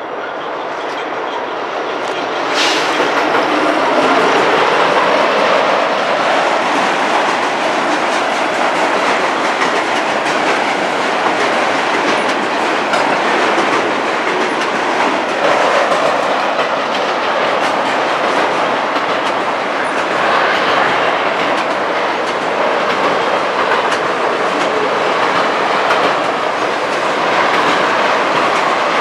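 Union Pacific freight train passing close by: the diesel locomotive approaches, louder over the first few seconds, then a long string of autorack cars rolls past with a steady rumble and wheels clicking over the rail joints.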